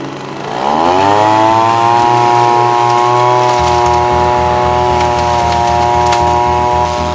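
Petrol engine of a Garland Stream 550G blower/vacuum revving up from low speed over about the first second, then running steadily at high speed.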